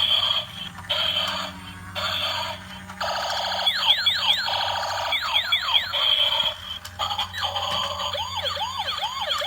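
Toy transforming police car's electronic sound effects through its small speaker: short choppy bursts, then a run of quick falling siren sweeps, then a rising-and-falling siren wail near the end, over a steady low hum.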